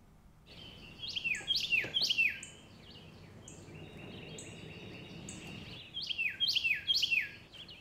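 Birds calling: clusters of quick, downward-sweeping whistled notes about a second in and again near the end, with a steadier held note in between.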